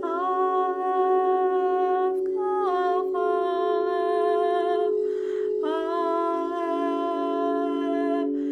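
A woman's voice singing long, held, wordless notes that step down in pitch about two and a half seconds in, with a breath about five seconds in. Under it runs the steady drone of singing bowls.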